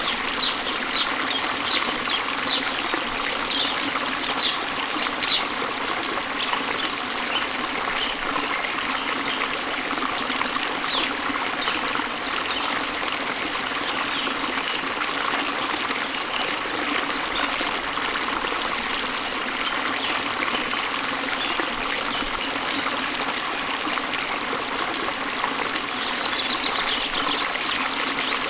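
Waterfall water running steadily. A bird chirps a quick series of short high notes, about two a second, for the first few seconds, with fainter chirps later on.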